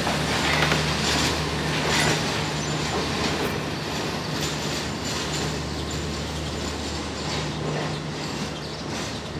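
Passenger train pulling away from a station platform, its wheels clacking over the rail joints above a steady low hum. It fades gradually as the train draws away.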